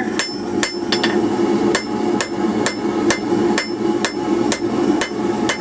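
Hand hammer striking a hot steel bar on an anvil in a steady rhythm of about two blows a second, squaring off the round bar. A steady hum runs underneath.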